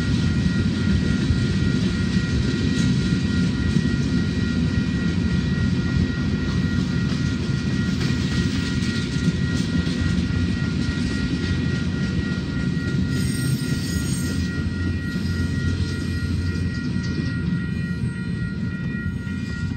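Freight train of covered hoppers and tank cars rolling past: a steady rumble of steel wheels on the rails with a thin, steady high-pitched whine over it. It eases off slightly near the end as the last cars go by.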